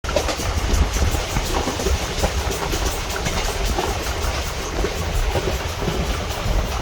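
Moving train on Indian Railways track: a steady rumble of wheels on the rails, with scattered light clicks of wheel clatter.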